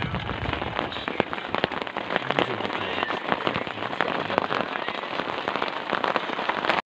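Rain falling steadily, with a constant spray of close, sharp drop hits on a surface near the microphone. It cuts off abruptly near the end.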